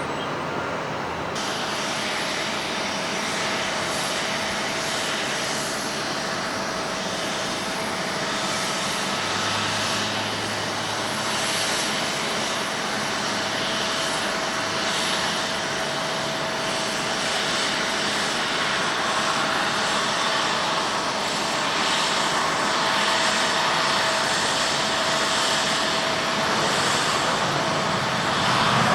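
Boeing 767-300ER airliner's jet engines on approach to land, a steady dense rumble with a thin whining tone that grows slowly louder as the plane comes closer. A rising whine starts near the end.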